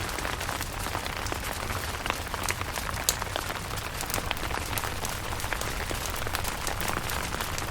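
Steady rain pattering on a camping tent, with many separate drops ticking sharply over the dense hiss of the rain.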